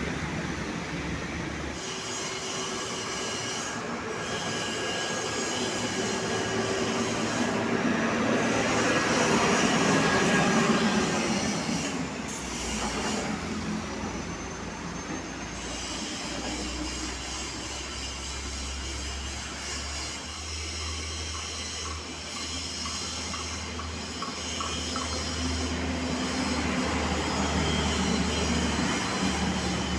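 Heavy road traffic: large trucks and buses passing, engines running and tyres droning. A high thin squeal runs through it, and the sound swells as one vehicle passes closest about a third of the way in.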